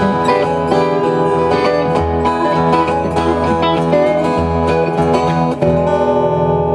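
Live country band playing an instrumental passage of picked guitar over bass, settling into a held chord near the end.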